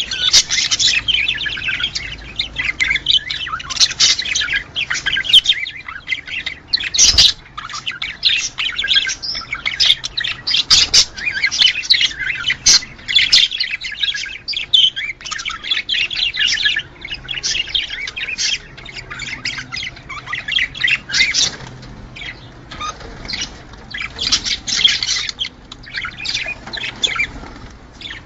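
Budgerigars chattering and warbling together: dense, fast, scratchy calls with sharp squawks mixed in, the kind of flock chatter used to stimulate budgie pairs to breed.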